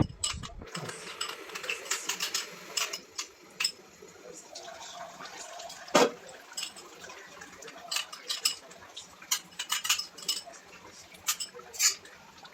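Metal utensils clinking against cookware: a run of quick taps and scrapes, with one louder knock about six seconds in.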